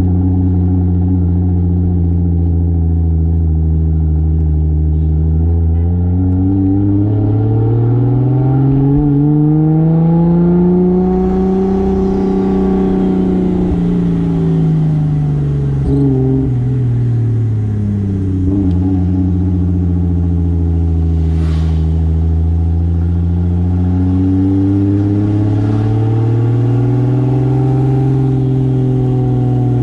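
The single-turbo 2JZ straight-six of a 1995 Toyota Soarer driving along. Its note climbs smoothly as the car accelerates, then drops away, and climbs once more before settling at a steady cruise. A brief hiss is heard about two-thirds of the way through.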